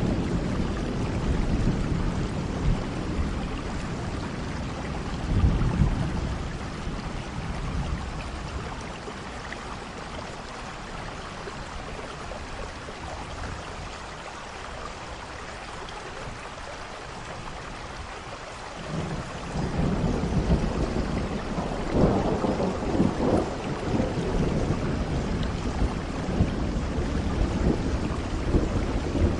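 Steady rain with rolling thunder. Low rumbles near the start and about five seconds in die away to rain alone through the middle, then a louder roll of thunder builds about two-thirds of the way through.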